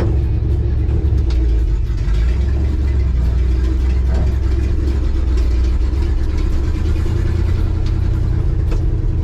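1965 Chevy C20 pickup's engine running with a steady low rumble while the truck is driven to test its newly bled brakes.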